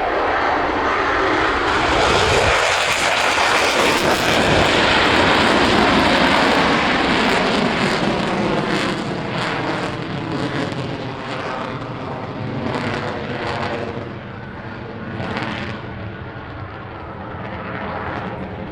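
F-22A Raptor fighter jet's twin Pratt & Whitney F119 turbofans at full power during its display take-off and climb. The jet roar builds to a peak about five seconds in, then gradually fades as the aircraft draws away.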